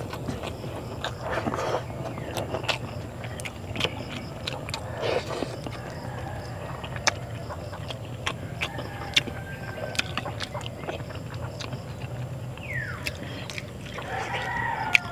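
Close-up eating sounds from a person eating rice and fried milkfish by hand: chewing with frequent sharp, wet mouth clicks and smacks scattered throughout.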